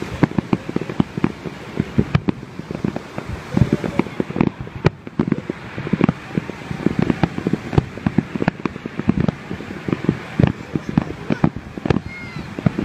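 Fireworks display going off in a rapid, irregular barrage of bangs and crackles.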